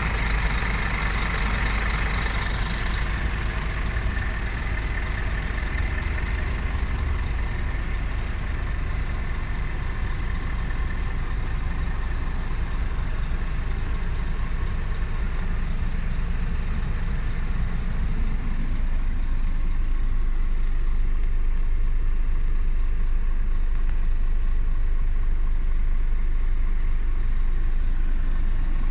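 Scania R480 truck's diesel engine idling steadily, a low rumble that grows a little louder about two-thirds of the way through.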